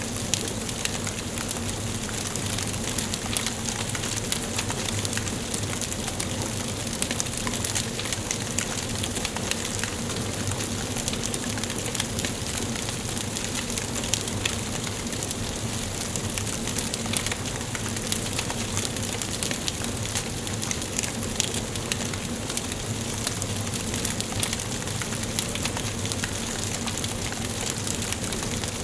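Wood fire burning in a fireplace: a steady hiss with frequent small, irregular crackles and pops from the burning logs.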